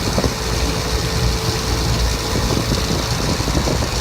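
Air-conditioning condensing unit with a Copeland scroll compressor running with a steady low hum and rattle, plus a faint steady tone in the first half. The compressor has bad bearings.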